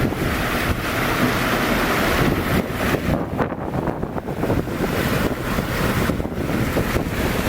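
Wind buffeting a camera's built-in microphone, a continuous gusting rumble with a rushing hiss that swells between about one and three seconds in.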